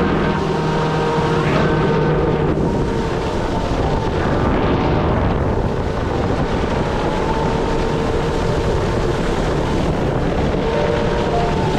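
Small electric jet-drive kart boat running on the water: a steady motor whine that drifts a little in pitch over a constant rush of water, with wind on the microphone.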